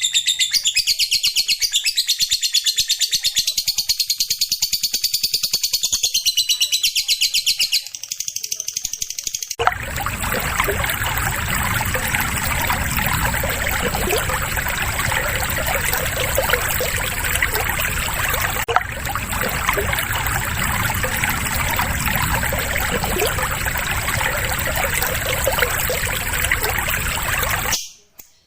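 Lovebird ngekek: a long, fast, unbroken chattering trill. About nine and a half seconds in it cuts abruptly to a rougher, noisier recording of chattering with a steady high whine behind it, which stops suddenly near the end.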